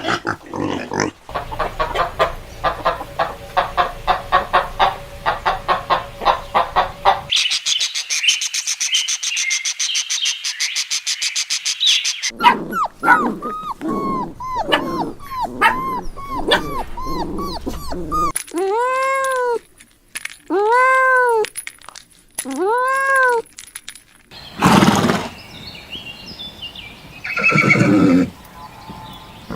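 Different farm animals calling one after another in short cut-together clips: a fast rhythmic stretch first, then high chirping, then many short rising-and-falling calls, and three long arched calls just before the last few seconds.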